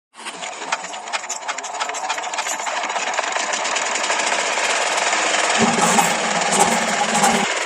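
A small model engine on a homemade miniature machine starts up and runs with a rapid, even clatter, growing a little louder. A low hum joins for about two seconds near the end.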